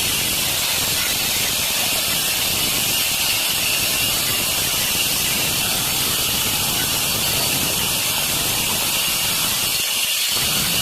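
Water running hard from a tap, a steady hissing rush.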